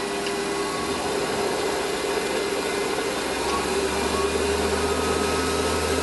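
Electric workshop machine running steadily, with a deeper hum coming in about halfway through.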